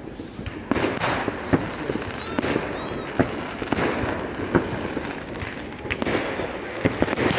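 New Year fireworks going off: a dense run of sharp bangs and cracks at irregular intervals over continuous crackling, with a few faint whistles from rising rockets.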